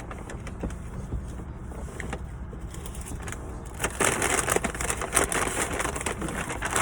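Crinkling and rustling of fast-food wrappers and packaging as leftover food is packed up, sparse at first and busier from about halfway through, over a steady low hum.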